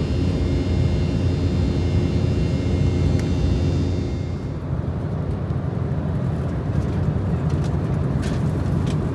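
Steady low rumble of an airliner cabin in flight, with a thin high whine over it in the first half that drops away about halfway through. A few faint clicks come near the end.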